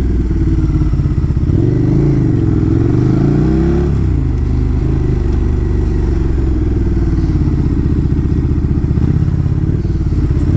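KTM motorcycle engine heard from on the bike. The revs rise and fall a couple of times about two to four seconds in, then the engine runs at a steady low speed.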